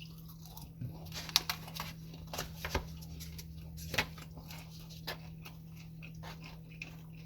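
Takeout food and containers being handled: scattered light clicks and soft rustles, a few sharper ticks, over a steady low hum.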